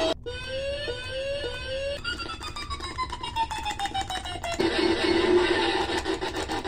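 Electronic sound effects from a homemade noise-maker pedal: a few quick rising sweeps, then a long tone sliding slowly down, then a lower buzzy tone, with clicking throughout.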